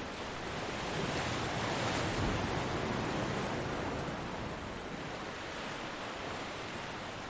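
Ocean waves breaking and washing on a beach: a steady rush of surf that swells to a peak a couple of seconds in and then ebbs.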